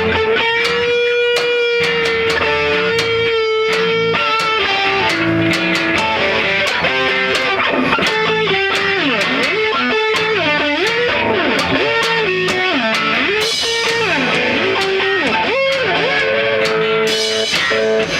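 Live rock band playing: distorted electric guitar holding a long note, then bending it up and down again and again, over bass and drums.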